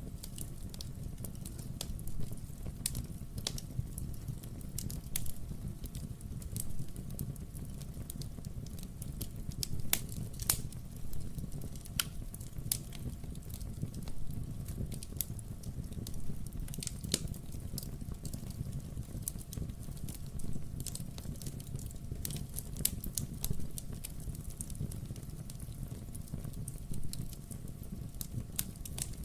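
Wood fire burning in a fireplace, crackling steadily with irregular sharp pops over a low, steady rumble of the flames.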